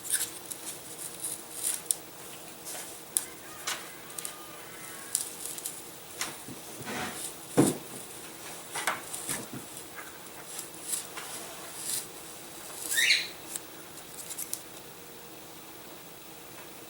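Hobby knife cutting through the perforations of a laser-cut balsa wing to free the flaperon: an irregular run of small clicks and snaps, one louder snap about halfway through, and a short rising squeak near the end.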